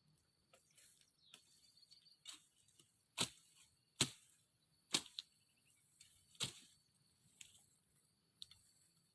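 A blade chopping into wood: a run of sharp strikes, four loud blows about a second apart in the middle, with lighter cuts before and after.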